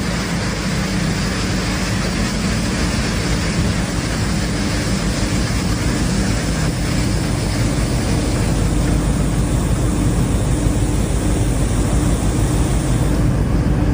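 Komatsu HD785-7 mining dump truck's 12-cylinder diesel engine running steadily with a loud, even roar.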